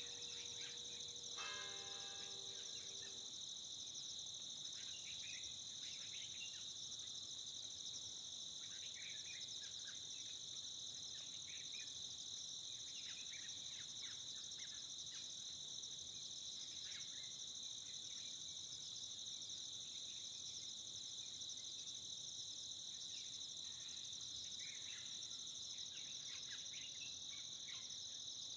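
A dense chorus of insects trills steadily, with faint bird chirps scattered through it. A bell strikes once about a second and a half in and rings out briefly.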